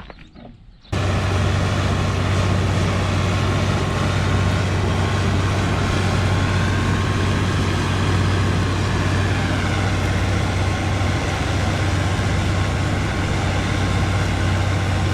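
Tractor engine running steadily at a constant speed with a deep hum. It cuts in abruptly about a second in.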